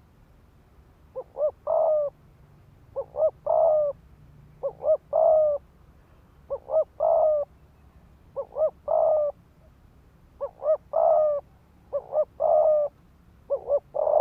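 Spotted dove cooing in a rapid repeated phrase, two short coos then a longer coo, eight times with a pause of about half a second to a second between phrases.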